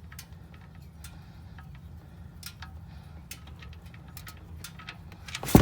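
Old oil and flush draining from a 2003 Ford F-150's 4.2L engine into a drain pan: a steady low rumble with scattered light ticks. A single sharp knock comes near the end.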